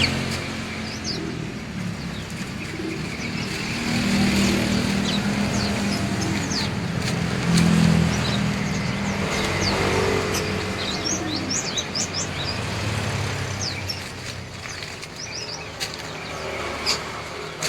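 Many small caged songbirds chirping and twittering in short, quick calls, with the low hum of road traffic underneath.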